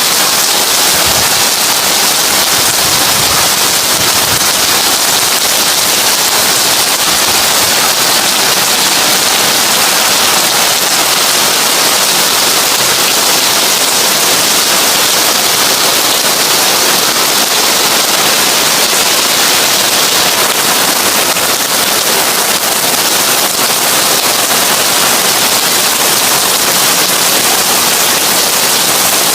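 Heavy rain drumming on a tin roof: a dense, steady patter of drops on the metal.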